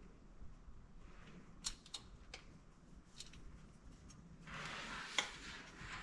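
A few faint, sharp clicks and ticks, then a scraping or rustling noise of about a second with one sharper click in it.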